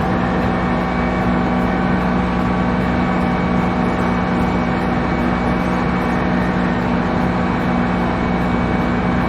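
ISEKI Geas AT340 tractor's diesel engine running steadily under load with an even hum, pulling a NIPRO wing harrow in paddy puddling work. Since the cooling water pump was repaired, it is running without trouble.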